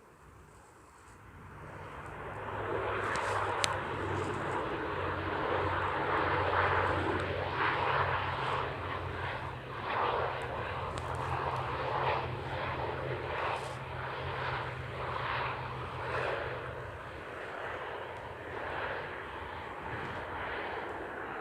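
Airliner engines rising in over the first couple of seconds and then running loud and steady as the plane passes, with a low steady hum that stops near the end.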